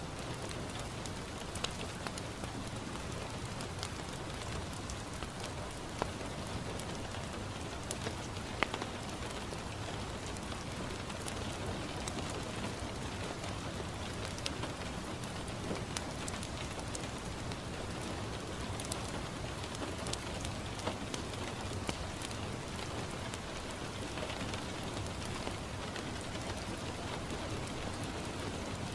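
Steady rain falling on a window, with scattered sharp pops and crackles from a wood fire in a fireplace, a few of them standing out clearly.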